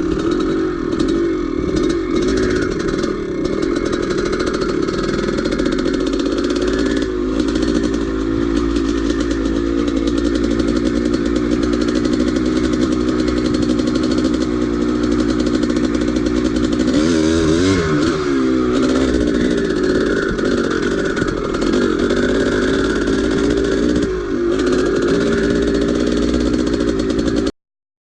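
Two-stroke single-cylinder engine of a 1983 Maico 490 dirt bike running hard under load. Its pitch swings down and back up about seventeen seconds in, and again dips near the end, before the sound cuts off abruptly.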